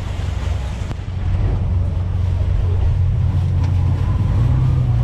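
Boat engine running with a steady low drone, getting louder about a second in and taking on a slightly higher note near the end.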